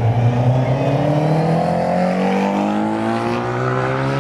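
A car engine accelerating under load, its pitch rising steadily through one gear.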